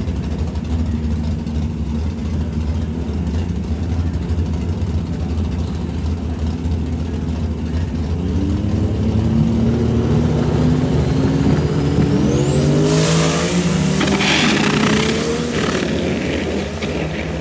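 A car engine idling with a steady low rumble, then revving up and accelerating hard about eight seconds in. Its pitch climbs along with a rising high whine, and it eases off near the end.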